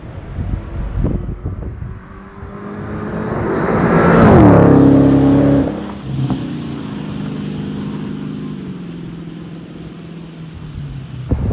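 Supercharged 6.2-litre HEMI V8 of a 2016 Dodge Challenger SRT Hellcat driving past: the exhaust grows louder to a peak about four to five seconds in, its pitch falls as it goes by, and after a sudden drop it carries on as a steadier, lower drone. Wind buffets the microphone near the start and at the end.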